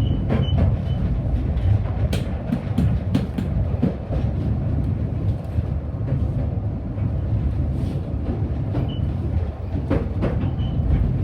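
Narrow-gauge railway carriage in motion, heard from on board: a steady low rumble of wheels on track, with scattered clicks and knocks from the rail joints.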